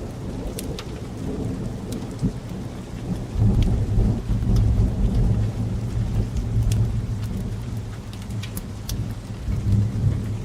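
Steady rain with a low rumble of thunder that swells about three seconds in and again near the end, with scattered sharp crackles of a wood fire.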